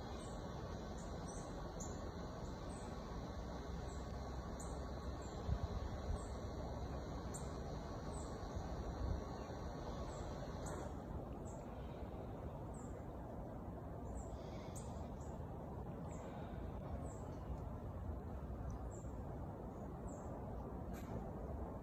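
Small birds giving repeated short, high, falling chirps, about one or two a second, over a steady low outdoor rumble. A couple of soft bumps come about five to six seconds in.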